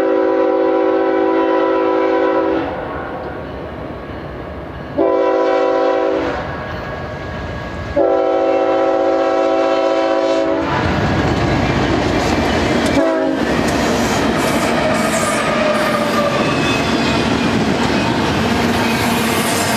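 A BNSF GE ES44DC locomotive's air horn sounding its grade-crossing signal: the tail of a long blast, a short blast about five seconds in, and a long blast from about eight seconds. At about eleven seconds the lead locomotives reach the crossing, and the engines and double-stack well cars then roll past steadily, with wheels clattering on the rails.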